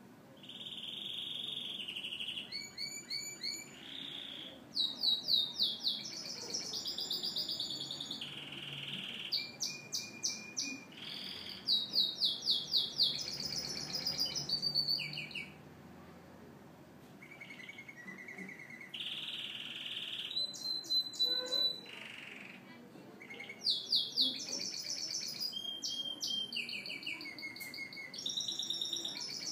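Domestic canary singing a long, varied song: fast trills of rapidly repeated notes alternate with high held whistles, with a couple of short lulls partway through.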